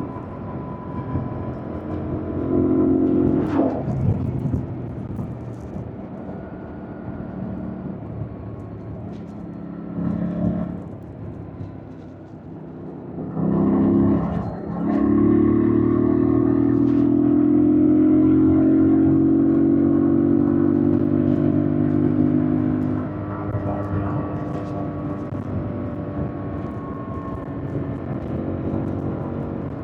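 2025 Yamaha MT-07's 689 cc parallel-twin engine on a fast ride, heard from the bike. The throttle opens in short surges in the first half. About halfway it pulls hard and long, the pitch climbing slowly, then eases back to a quieter, steadier run near the end.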